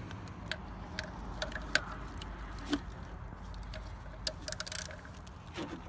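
Irregular light clicks and metallic taps of hand tools and parts being handled in a car's engine bay, a cluster of quick rattles about four and a half seconds in, over a low steady hum.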